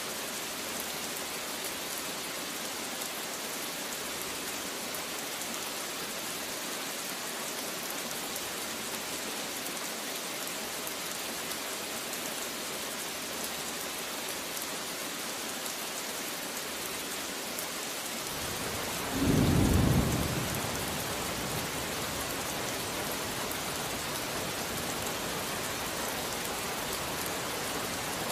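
Steady rain falling, with one loud clap of thunder about two-thirds of the way in that rolls off into a low rumble.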